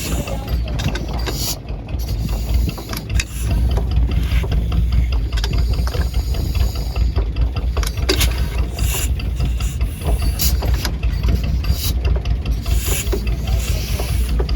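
Antique hand-cranked engine with exposed rocker arms and valve springs running slowly just after starting, a rapid even mechanical clatter of its valve gear over a deep low rumble. It grows louder about three and a half seconds in.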